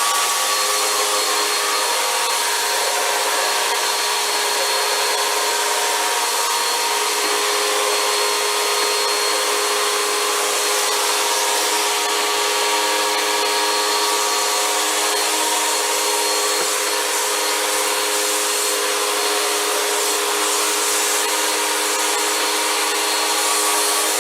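Vacuum cleaner running steadily through its hose attachment, a constant rushing suction with a steady motor whine.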